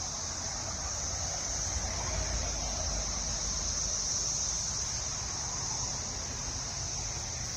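Cicadas singing in chorus: a continuous, steady high-pitched buzz with no breaks.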